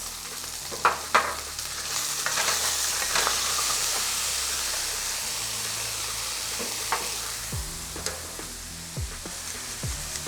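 Chicken breast pieces frying in oil in a pot, a steady sizzle that swells about two seconds in. Two sharp knocks about a second in.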